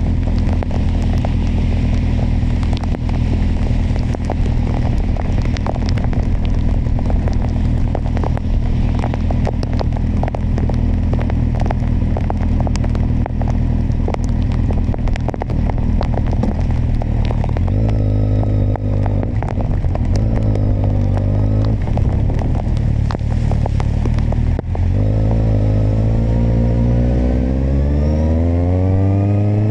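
Kawasaki motorcycle engine running at a steady cruise, with a crackling hiss of wind and rain noise over it. About 18 s in the engine pitch shifts, and after a brief drop a few seconds later the revs climb steadily as the bike accelerates.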